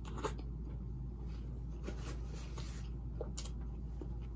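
A person chewing a mouthful of food with the mouth closed, with a few soft wet mouth clicks, over a steady low room hum.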